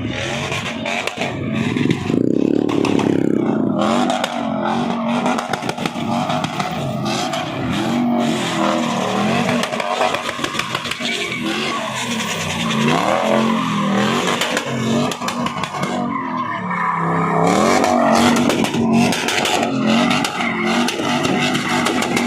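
Vehicle engines revving again and again, the pitch climbing and dropping in repeated surges, with sharp crackling ticks throughout.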